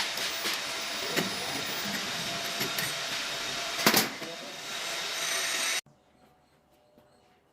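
A metal pattern-bending machine for cold forging running steadily with a faint hum and a few clanks; it cuts off suddenly about six seconds in.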